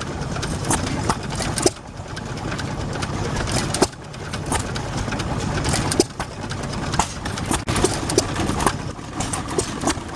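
Vintage stationary engine running, a steady low chugging with sharp clicks and knocks scattered through it.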